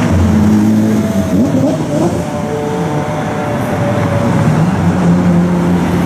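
Lamborghini supercar engines running and revving as the cars drive off, with one engine blipping up in pitch about a second and a half in.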